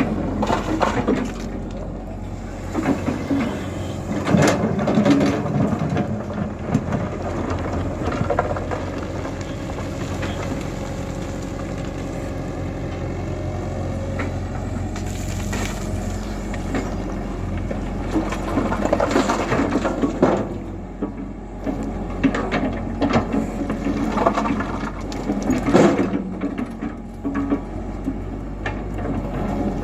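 Diesel engine of a Tata Hitachi EX120 tracked excavator running steadily under hydraulic load, with several loud crashing, scraping clatters from the bucket as it works the material and loads it into a truck.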